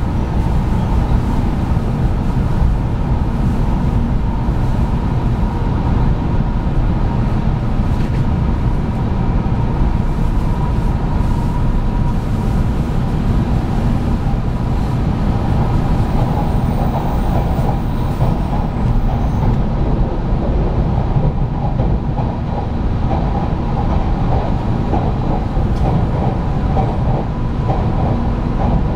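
JR West 700 series 7000 'Rail Star' Shinkansen train running at speed, heard from inside the car: a steady, loud rumble with a faint steady whine on top.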